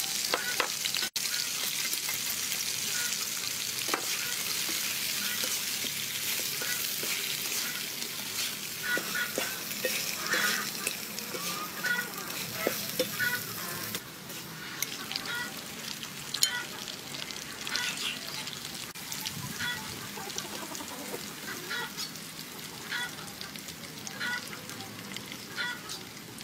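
Food frying in hot oil: a steady sizzling hiss with scattered crackles. The sizzle drops somewhat about halfway through, and short high chirps come through more in the second half.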